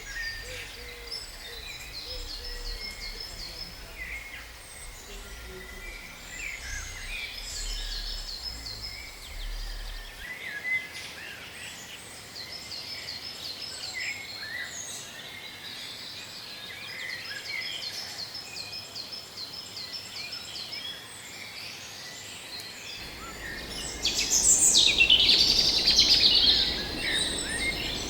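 Several tropical forest birds calling together: scattered chirps and short phrases of rapid repeated notes. One louder, closer bird calls for a few seconds near the end.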